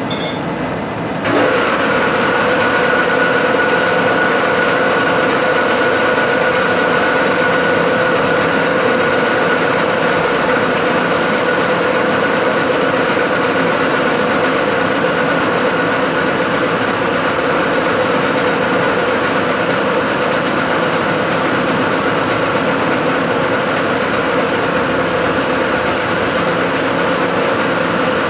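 Metalworking machine tool running under cutting load, a steady mechanical noise with two held tones, stepping up in level about a second in and then holding.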